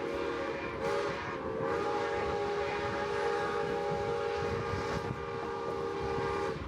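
Steam whistle of Baldwin 2-8-0 locomotive #81 blowing a chord of several notes. It breaks briefly about a second in, then holds one long blast that cuts off sharply near the end.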